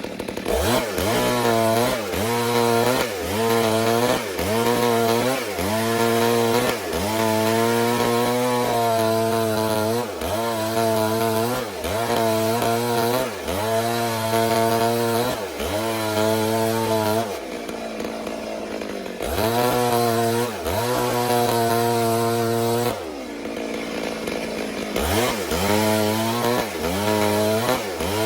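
Stihl MS 382 two-stroke chainsaw ripping lengthwise through a log. It runs at high revs, its pitch dipping and climbing back about every second and a half, and twice drops briefly to lower, quieter revs.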